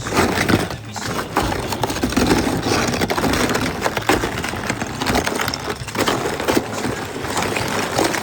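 Thick glaze ice on a car being chipped and scraped, crunching and cracking in quick, irregular strokes.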